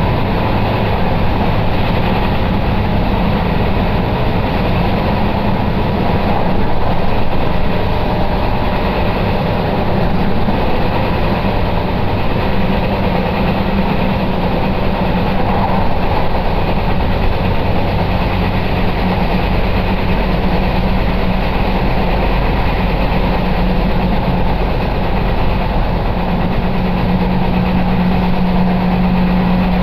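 Electric commuter train running at speed, heard from inside the carriage: a steady rumble of wheels on the track with a low, even hum.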